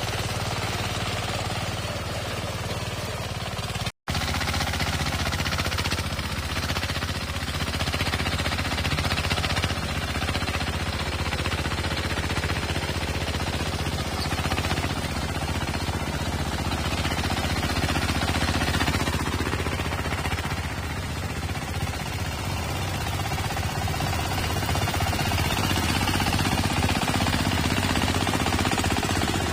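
Small diesel engine of a mini rotary tiller running steadily with a rapid pulsing beat, with a momentary break in the sound about four seconds in.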